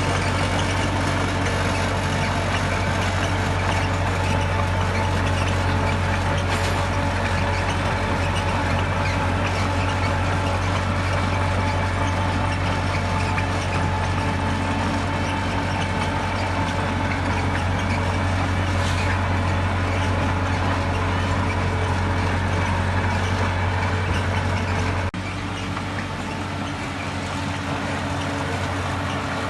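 Heavy diesel engine of construction machinery running steadily with a deep, even hum. The level drops suddenly near the end and the engine sound carries on a little quieter.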